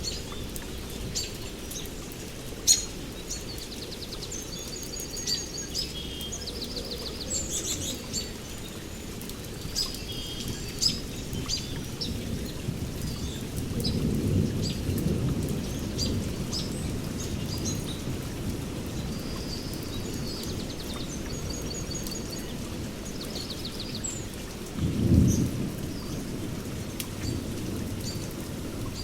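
Steady rain with sharp drips, birds chirping and trilling, and low rumbles of thunder: one swelling midway and a shorter, louder one near the end.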